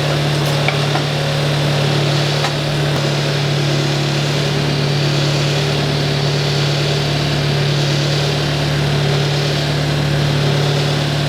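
An engine idling steadily with a constant low drone.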